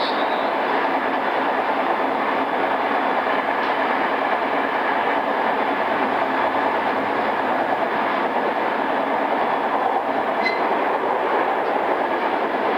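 Running sound inside a JR East E217 series commuter train (pre-renewal), heard in the motor car: steady wheel, rail and traction-motor noise as the train runs at an even speed, with a few faint clicks. Recorded on cassette tape, so the top end is cut off and there is a tape hiss.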